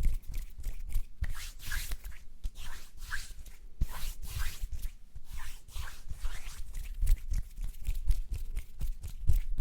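Close-miked ASMR mouth and hand sounds: a quick, uneven run of small clicks mixed with short rubbing swishes.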